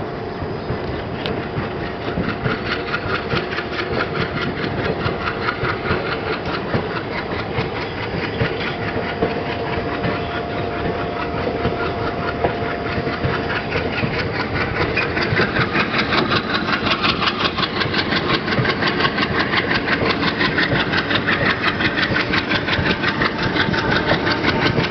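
Train running on the track: a continuous rumble with a fast, even rhythmic clatter that grows louder and sharper from about halfway through.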